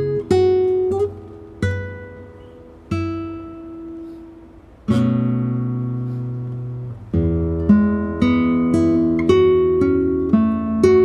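Acoustic guitar playing a slow instrumental piece: plucked single notes and chords left to ring out, one chord sustained for about two seconds, then notes coming quicker in the last few seconds.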